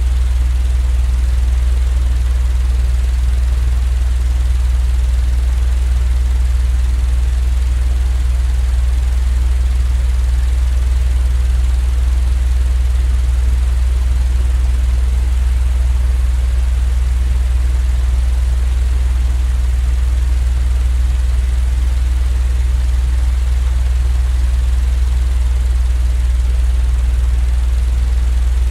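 Continuous, unchanging low droning hum with a faint hiss above it: a looped sleep-aid noise track of the fan or train-rumble kind.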